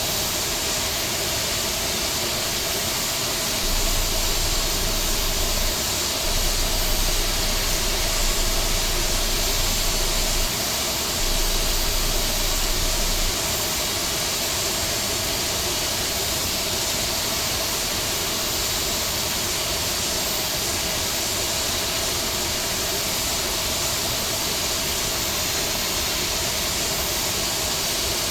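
Steady jet airliner noise from an Airbus A321neo: an even rushing hiss with a faint hum. A low rumble joins about four seconds in, breaks off twice, and stops about thirteen seconds in.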